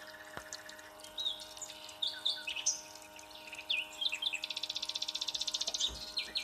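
Small songbirds chirping with short, varied calls, including one rapid trill of even pulses that lasts about a second and a half past the middle. A faint steady hum runs underneath.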